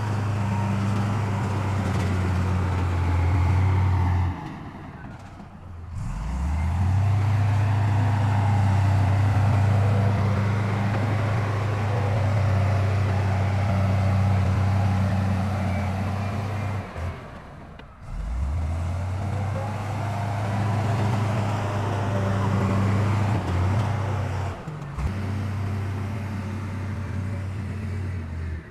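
Heavy diesel engine of earth-moving machinery running with a steady deep drone. It drops away briefly three times and revs back up after the first two breaks.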